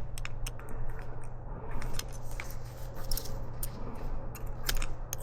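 Scattered light metallic clicks and taps from a hand clamping tool being worked against a CV boot clamp, over a steady low background hum.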